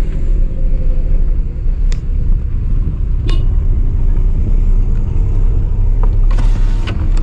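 Car driving, with a steady low rumble of engine and road noise. A couple of brief clicks, and a short hiss near the end.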